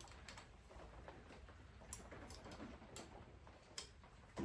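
Near silence: quiet room tone with a few faint clicks a couple of seconds apart, and a slightly louder knock near the end.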